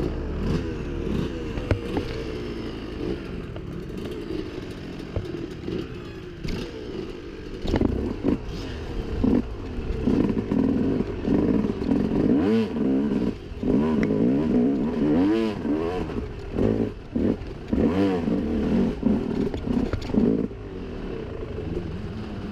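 Dirt bike engine revving up and down again and again while riding a rough trail, with short clattering knocks from the bike over the ground. The revving gets busier and louder past the first third and eases near the end.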